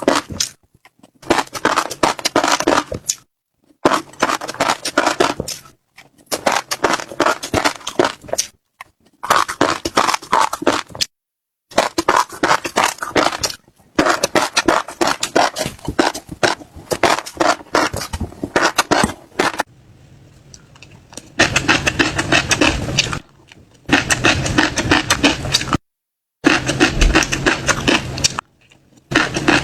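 Close-miked chewing of crunchy seeds: dense crackling crunches in runs of a second or two, separated by abrupt silent gaps.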